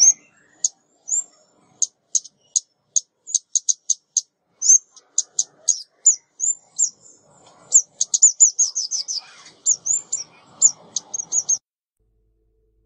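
A small songbird, a female 'ốc mít', giving high, sharp chip calls. Some are single and others come in quick runs, with a fast rattling series about eight seconds in. The calls stop about a second before the end.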